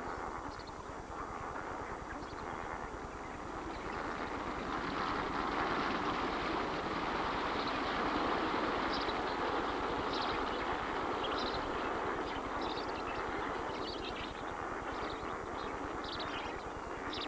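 Massed calling of a large flamingo flock: a dense, steady clamour that swells a few seconds in, with short higher calls standing out over it in the second half.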